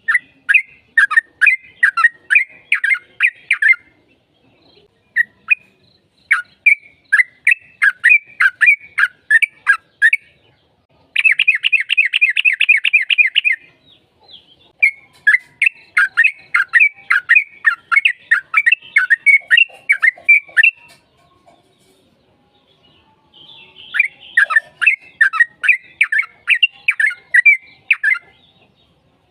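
Yellow-vented bulbul singing in long runs of rapid chirping notes, several seconds each, broken by short pauses, with a quicker, denser trill about eleven seconds in.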